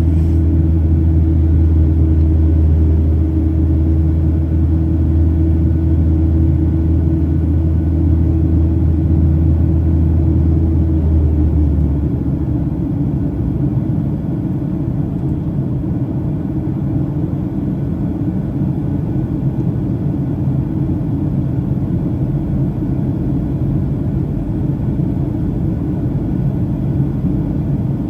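Cabin noise of a Boeing 737-800 in flight: its CFM56-7B jet engines and the airflow make a steady rumble. A strong low hum drops away about twelve seconds in, leaving a slightly quieter, even rumble.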